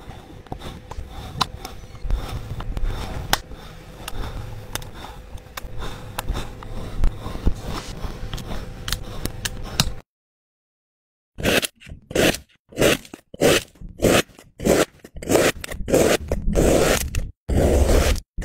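Faint crackling and light clicks over a low rumble; then, after a brief dead gap, repeated scraping strokes of about two a second, like something being cut or scraped through a soft, gritty material.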